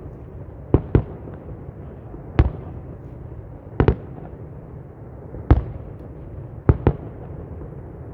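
Aerial fireworks bursting: sharp booms at uneven intervals, about eight in all and some in quick pairs, over a steady background rumble.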